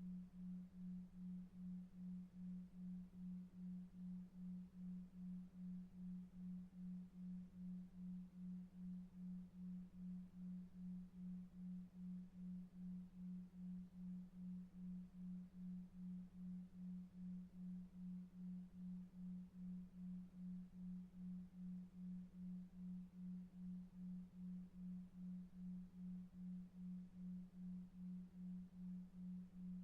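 Low, faint synthetic hum tone pulsing evenly about two and a half times a second: a 2.5 Hz delta-wave sleep tone over faint brown noise.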